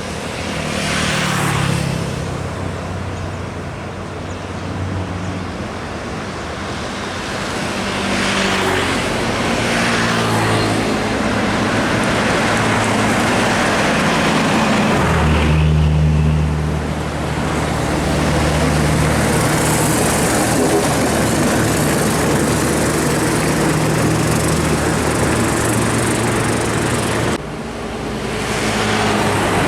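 Heavy trucks' diesel engines running as they pass, with deep engine tones and road and tyre rush. The sound changes abruptly about halfway through and again near the end.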